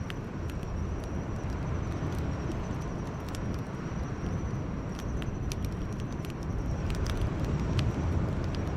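Wood campfire crackling, with irregular sharp pops and snaps over a steady low rumble. A thin, steady high-pitched tone runs behind it.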